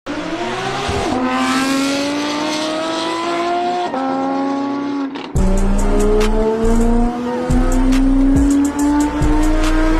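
Car engine accelerating hard through the gears: its note climbs steadily, drops back at an upshift about four seconds in and again about five seconds in, then climbs again.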